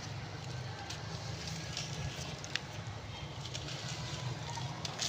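Blocks of compressed red brick dust crumbled by hand: a continuous dry crackling crunch with scattered sharp snaps, over a steady low hum.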